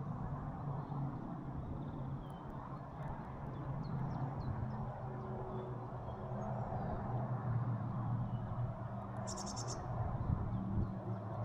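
Small birds chirping faintly at a feeder over a steady low rumble, with one short harsh call about nine seconds in.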